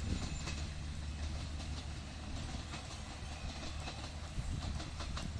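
Train rolling past: a steady low rumble of the wagons, with irregular sharp clicks of the wheels over the rail joints.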